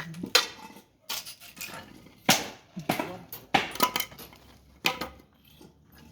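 Wooden bed frame being broken up by hand for firewood: a series of irregular sharp cracks and knocks, about one a second, as the boards are snapped and pried apart.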